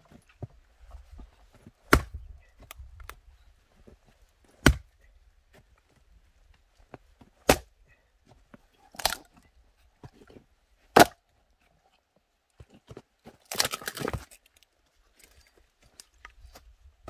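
Axe chopping firewood: five sharp blows a couple of seconds apart, then a short clatter of wood near the end.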